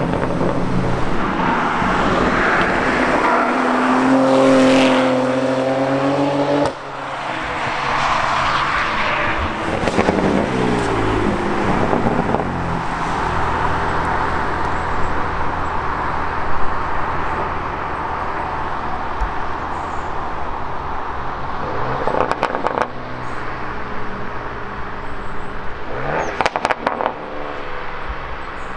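Camouflaged 2020 Alpina B3 Touring prototype's twin-turbo straight-six accelerating away, the revs rising, then dropping suddenly near seven seconds. The car pulls hard again, then runs at lower revs in traffic with a couple of brief rises.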